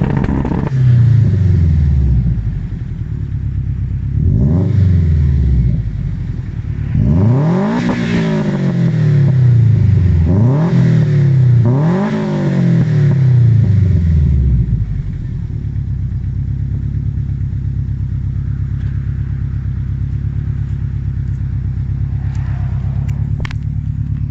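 Subaru Impreza GC8's flat-four boxer engine through an XForce aftermarket exhaust, revved up and back down several times, then settling into a steady idle about fifteen seconds in.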